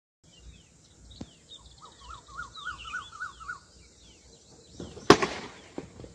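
Birds chirping in short falling calls, with a repeated warbling phrase over a low outdoor background. A sudden loud burst of sound comes about five seconds in.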